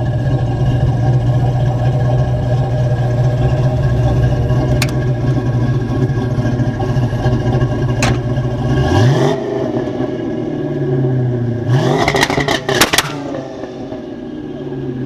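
Twin-turbo 5.3-litre LS V8 idling steadily, then revved twice: a quick blip about nine seconds in and a second rev near the end that comes with a burst of sharp crackles as it drops back to idle.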